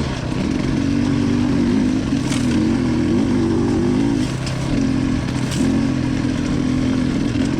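Off-road motorcycle engine running under way, its note rising and falling with the throttle, easing off briefly a little past four seconds.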